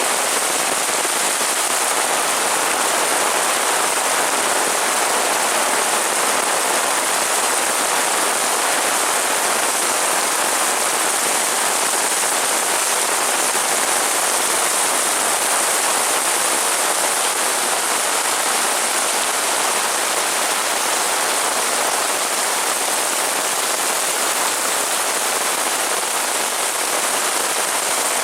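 Heavy rain falling steadily on surfaces, a dense even hiss with no letup.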